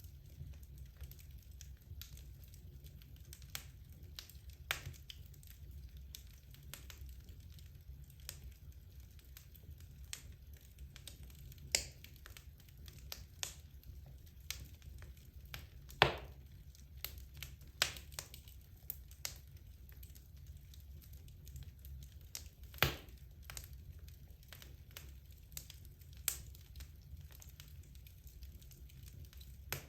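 Wood logs burning in a fireplace, crackling with scattered sharp pops over a low steady rumble; the loudest pop comes about halfway through.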